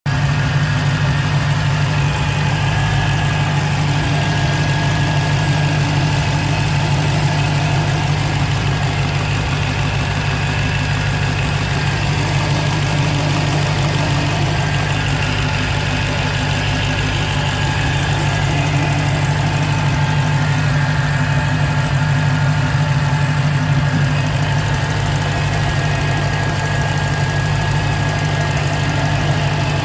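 2015 Dodge Challenger Hellcat's supercharged 6.2-litre HEMI V8 idling steadily, with a faint high whine from the supercharger. It is a little hard to hear; the owner takes it for the start of a bad supercharger bearing.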